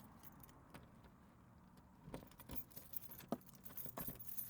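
A bunch of keys jangling in a hand, a run of light metallic jingles and clicks that starts about two seconds in after a few faint taps.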